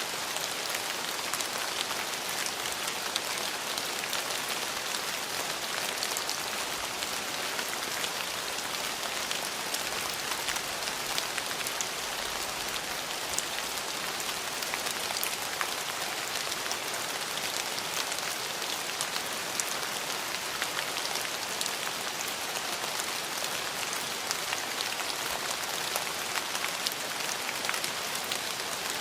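Steady rain falling, with a dense hiss and many small drop ticks on a hard surface.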